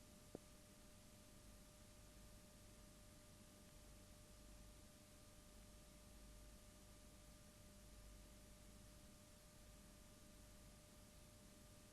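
Near silence: faint hiss with a thin, steady electrical whine, and one small click shortly after the start.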